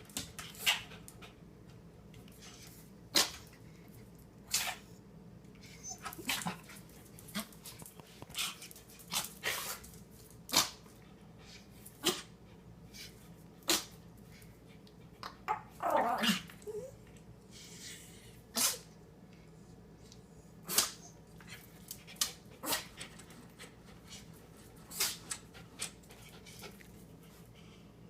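A dog sneezing over and over in a fit, about twenty short, sharp sneezes a second or two apart, with one longer sound falling in pitch about halfway through.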